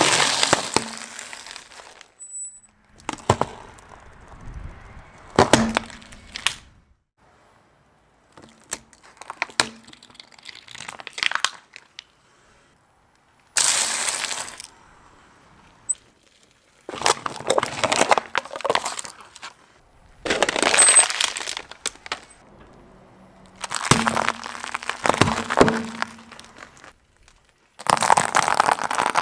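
Brittle objects being crushed under a car tyre: a series of crunching, cracking bursts with a glassy breaking sound, each lasting a second or two and coming every few seconds.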